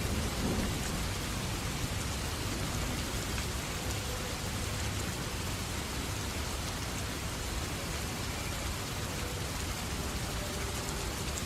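Steady heavy rain falling, an even hiss of drops, with the low rumble of a thunderclap dying away in the first second.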